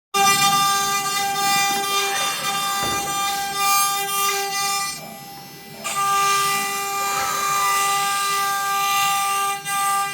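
CNC router spindle whining at a steady high pitch while carving an MDF sheet, with a few short falling tones from the machine's moving axes. The whine drops away for about a second near the middle, then comes back.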